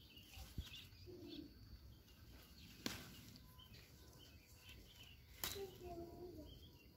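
Near silence with faint, scattered bird chirps, and two sharp clicks about three and five and a half seconds in.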